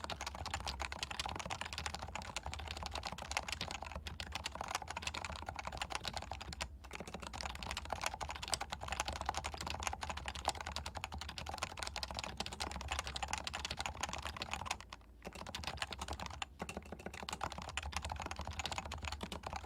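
Leopold FC660C keyboard with non-silenced 45 g Topre switches, stock lube, being typed on quickly: a dense, continuous stream of keystrokes, broken by brief pauses about seven and fifteen seconds in.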